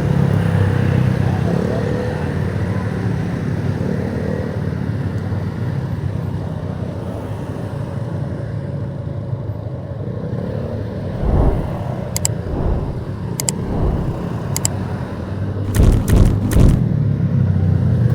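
Motorcycle engine running steadily while riding, over a haze of road and wind noise. Deep low thumps come about two-thirds of the way in and again near the end, along with a few sharp clicks about a second apart.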